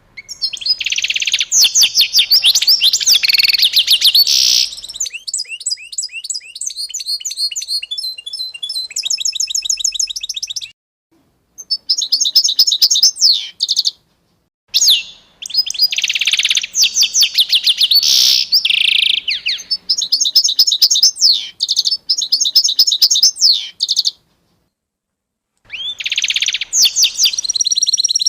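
Songbird singing in long, fast trills and runs of repeated high chirping notes. The song stops dead three times for a second or so, as if the recording was cut there.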